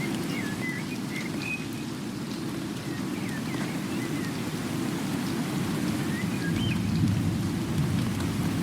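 Steady rain with a low rushing sound, and a few short, high chirps scattered through it.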